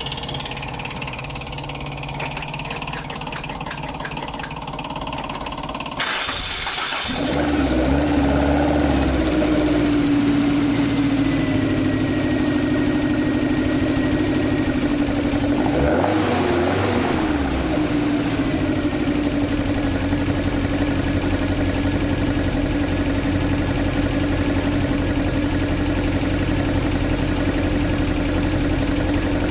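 About six seconds in, a car engine starts and settles into a steady idle, with a short rev about halfway through. The engine is the AE86's swapped-in AE101 4A-GE 20-valve engine.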